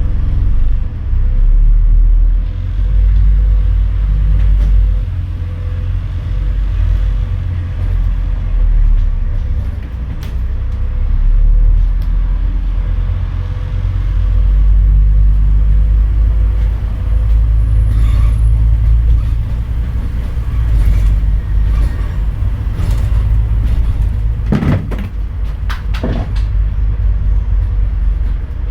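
Scania N230UD double-decker bus's engine and driveline running under way as heard on board: a deep, loud rumble that swells and eases. A few short clatters come near the end.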